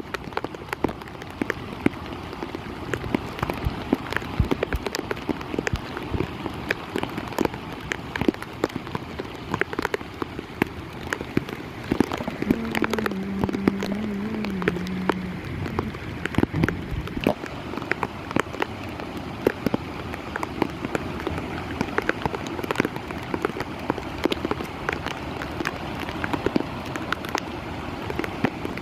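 Heavy rain falling steadily, with many sharp drop hits on a surface close by.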